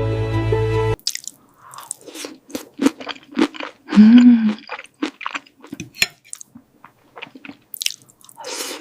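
Background music cuts off about a second in, followed by separate crisp crunchy bites and chewing of cooked food. A short low hum about four seconds in is the loudest sound.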